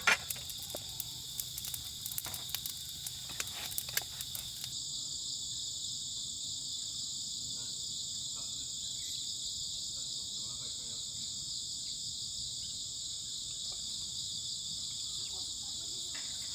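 Chorus of crickets and other night insects, a steady high-pitched trilling. A sharp knock at the very start, then a few light clicks and taps over the first few seconds.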